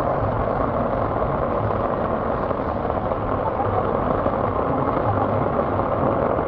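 Heavy rain falling steadily on wet paving, a dense, even hiss.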